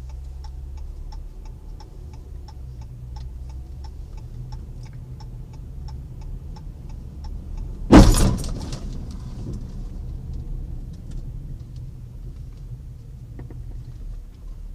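Car's turn-signal indicator ticking steadily, about three ticks a second, over the low hum of the car heard from inside the cabin. About eight seconds in comes one loud crash of a collision, dying away over about a second.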